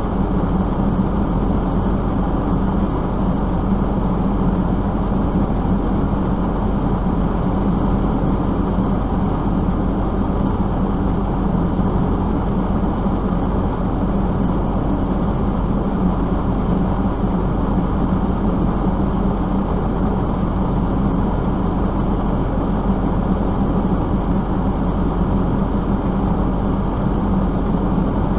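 A vehicle running at a steady pace, giving an even, unbroken drone with a constant low hum.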